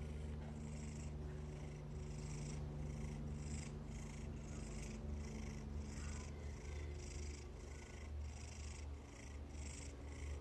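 Domestic cat purring steadily with an even pulse about twice a second.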